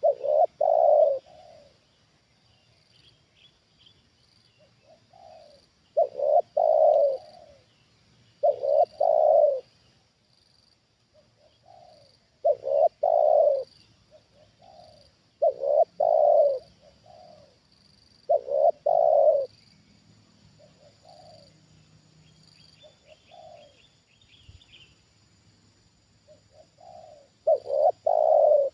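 Spotted doves cooing: repeated low, pitched call phrases every three seconds or so, each a couple of short notes leading into a louder drawn-out coo, with softer single notes between.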